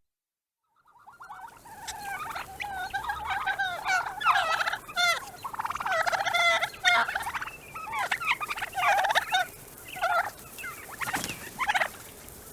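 Domestic turkeys gobbling, many warbling calls overlapping one another, starting about a second in.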